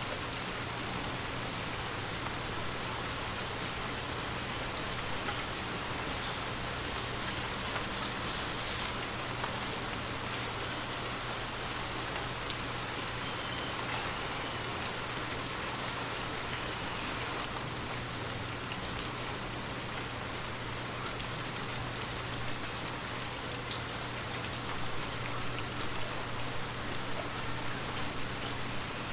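Steady rain falling, a dense even hiss with scattered drops pattering on surfaces.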